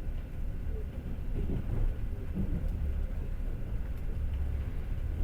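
Passenger train running along the track, heard from inside the carriage: a steady low rumble of the wheels and running gear.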